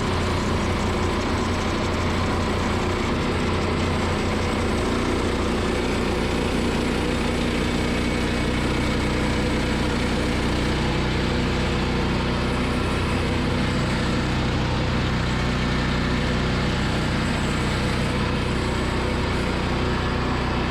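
Gas engine of a Woodland Mills portable bandsaw mill running steadily, driving the band blade through a large log, with a slight change in its pitch about eight seconds in.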